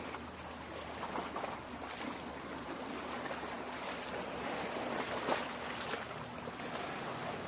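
Lake water lapping and splashing at the shore: a steady wash with frequent small, irregular splashes.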